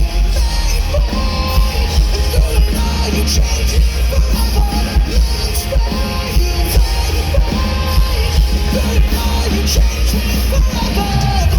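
A rock band playing live at full volume, with a heavy, booming bass and drum low end under a dense wall of instruments and some vocals.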